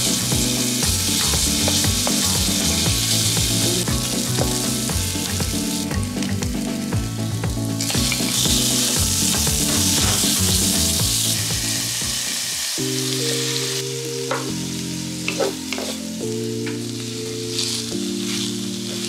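Garlic and ground pork sizzling in oil in a non-stick frying pan while being stirred with a wooden spatula. The sizzle is strong at first and eases about two thirds of the way through, with a few light taps and scrapes of the spatula near the end.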